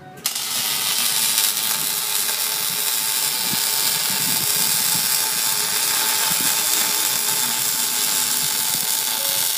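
Electric welding arc crackling and hissing steadily at an even, loud level. It starts abruptly about a quarter of a second in.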